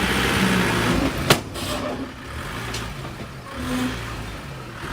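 Heavy diesel engine running steadily, with a single sharp knock about a second in.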